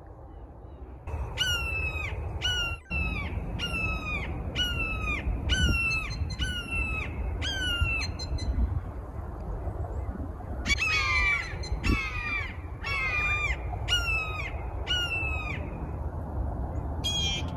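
A hawk calling a long series of loud, harsh notes, each sweeping downward, repeated about every half second in two bouts with a short break between, over a low steady rumble.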